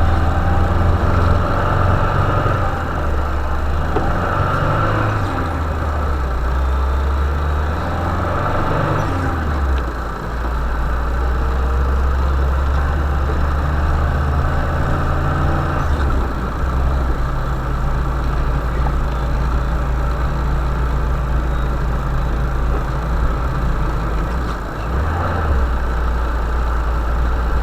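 A vehicle engine running, its pitch stepping up and down several times as the revs change.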